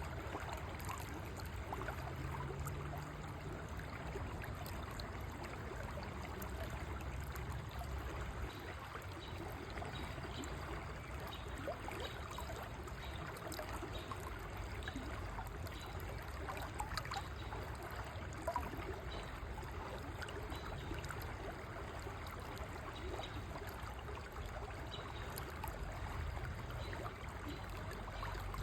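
River water flowing steadily, with a continuous rush and many small trickles and bubbles.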